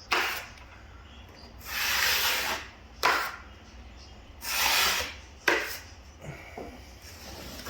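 Drywall knife scraping setting-type joint compound over fiberglass drywall tape on a wall: about five swipes, two of them longer, about a second each.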